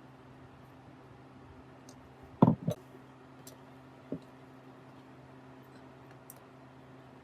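Two sharp knocks close together about two and a half seconds in and a lighter one about a second and a half later, with a few faint clicks, over a low steady hum.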